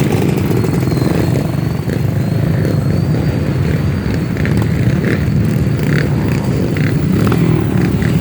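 Off-road trail motorcycle engine running steadily at an even, low pitch.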